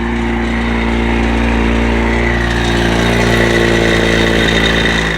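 Porsche Panamera 4S's 3.0-litre twin-turbo V6 running steadily on a cold start, idling loudly before it settles down, with a faint high whine over the engine note.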